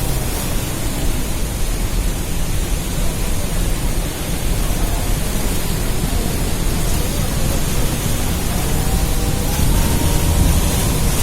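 Loud, steady rushing noise of the Rhine Falls, a large waterfall, with masses of water pouring down.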